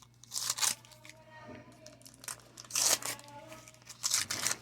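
Wax-paper wrapper of a baseball card pack being crinkled and torn open, in three loud crackling bursts: one at the start, one about three seconds in and one near the end.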